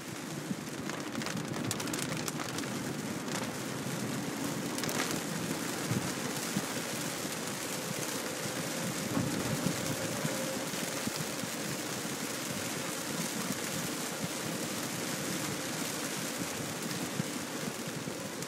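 Heavy rain on a moving car, heard from inside the cabin, with the hiss of tyres on the wet road.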